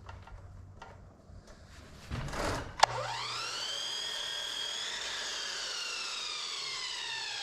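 Electric power saw. After a short rough noise and a sharp click about three seconds in, its motor spins up with a rising whine, then winds down with a slowly falling whine.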